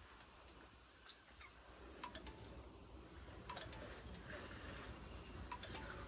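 Faint background sound: a steady high-pitched insect drone, with scattered light clicks and taps that grow more frequent after about two seconds.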